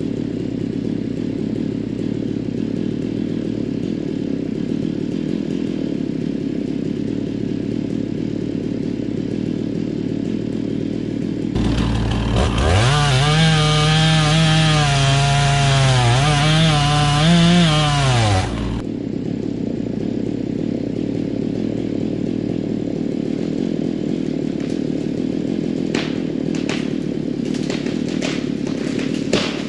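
Chainsaw run up to full throttle for about seven seconds, its pitch wavering as the bar bogs and recovers in the cut, then dropping away, over a steady engine idling underneath. A few sharp cracks come near the end.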